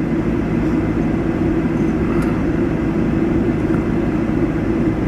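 Steady drone of a running vehicle engine, even and unchanging.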